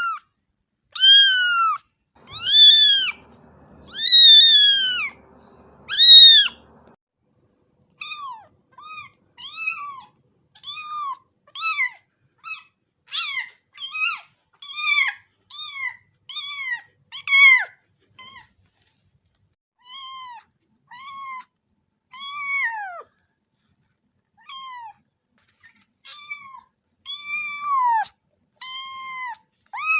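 Cat meowing over and over. A few long, loud meows come in the first six seconds, then a run of shorter, high-pitched meows about one a second, each rising and then falling in pitch.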